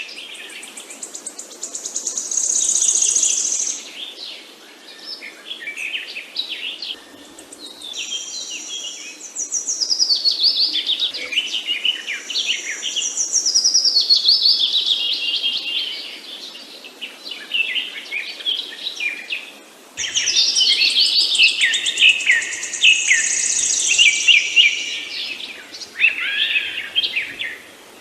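Several songbirds singing and chirping, with fast high trills and quick rising and falling notes coming in bouts with short lulls between them. A louder bout of song starts suddenly about two-thirds of the way through.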